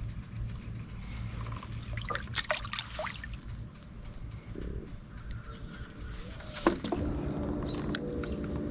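Water sounds and light knocks from a kayak on the lake. A steady high insect drone runs underneath, and a few sharp clicks come around the middle. A low steady hum comes in near the end.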